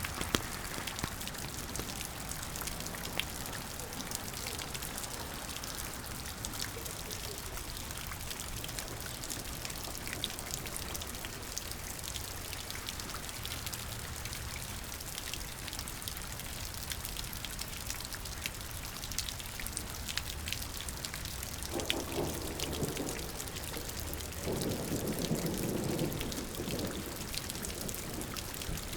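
Steady rain, with many close drops ticking on surfaces. Twice near the end a louder, deeper rushing sound joins in for a second or two.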